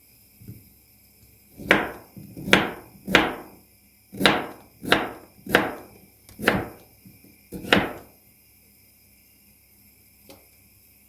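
A run of eight sharp knocks, roughly one a second or a little faster, from a kitchen task being done by hand, with a faint single knock near the start and another near the end.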